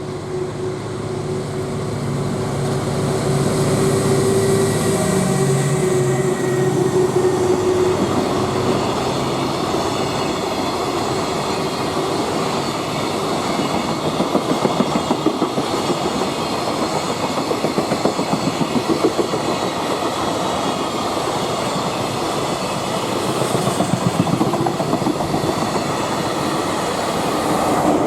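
Freight train passing close by: a steady tone from the passing locomotive fades about eight seconds in, and a long string of freight wagons rolls past with a continuous rhythmic clatter of wheels over the rail joints.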